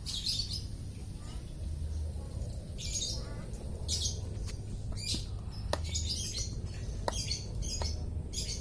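Lovebird giving a series of short, shrill chirps, about nine of them, coming closer together in the second half.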